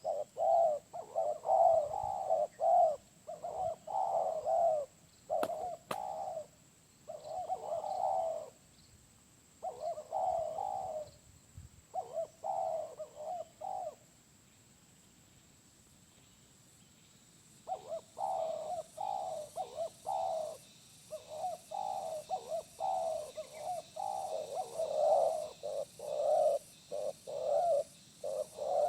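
Spotted dove (tekukur) cooing over and over in short, repeated phrases with a big voice. About halfway through it falls silent for a few seconds, then starts cooing again.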